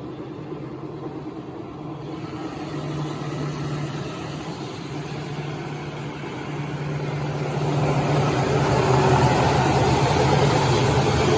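Six-roll wood sanding machine running with a steady motor hum, growing louder and rougher from about six seconds in.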